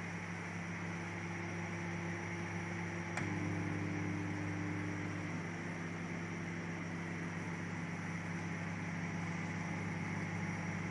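Sharp 20-litre basic microwave oven running: a steady low hum with fan noise. A click comes about three seconds in, and the hum is a little louder after it.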